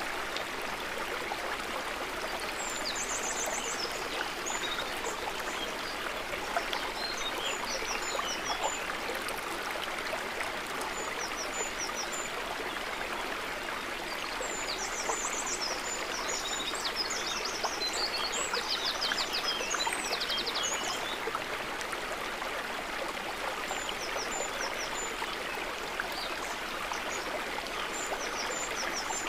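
Water trickling and babbling steadily, with high chirps and short rapid trills from small animals coming and going over it, busiest about halfway through.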